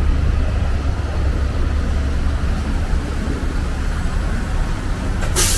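Street traffic: a steady low engine rumble from passing vehicles, with a short, sharp hiss near the end.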